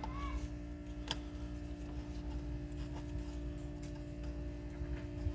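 A steady low hum with a single sharp click about a second in and a few faint ticks.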